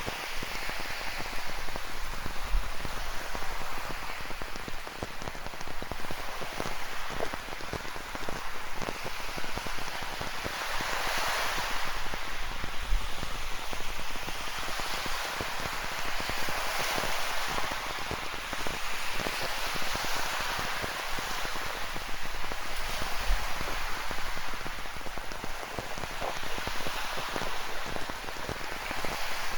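Steady rain falling, with fine drop ticks throughout, over ocean surf that swells louder every several seconds as waves wash in.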